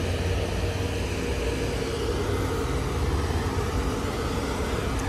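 Steady low mechanical hum with a constant droning tone, unchanging throughout.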